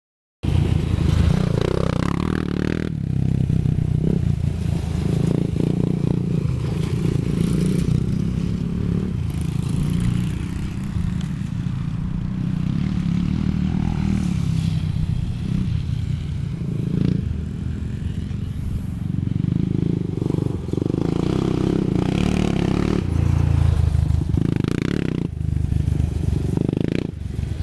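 Honda 400EX ATV's single-cylinder four-stroke engine running continuously while being ridden, its level and pitch shifting with the throttle.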